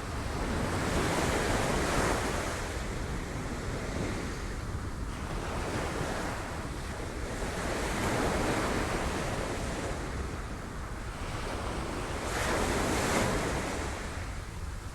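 Sea waves breaking on rocks: three surges of rushing surf, each swelling and ebbing about five or six seconds apart, over a steady low rumble.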